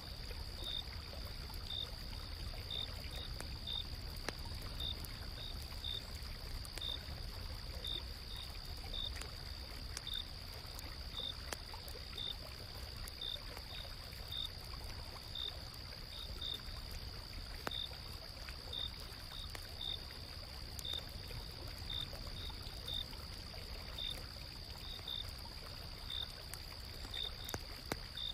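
Autumn-night insects calling: a steady high trill under short, repeated cricket chirps about once or twice a second. Under them a stream runs steadily, and a campfire gives scattered faint crackles.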